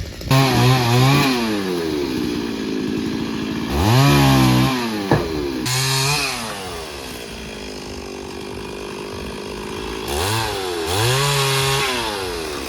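Two-stroke chainsaw revved up to full throttle in several bursts, falling back to a lower idle between them, as used when trimming branches from a tree.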